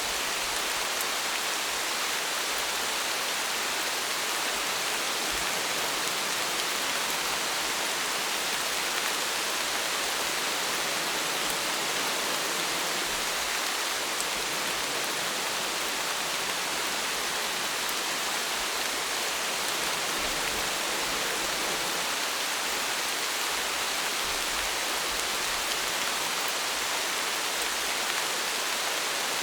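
Steady rain: an even, unbroken hiss of falling drops that doesn't swell or fade.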